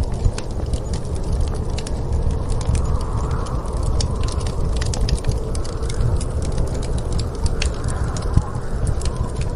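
Wood fire crackling with irregular sharp pops, over the steady low rush of a snowstorm's wind that swells and fades a few times.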